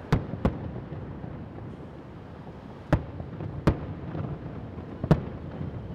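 Aerial firework shells bursting with five sharp bangs: two in quick succession at the start, then single bangs about three, three and a half and five seconds in.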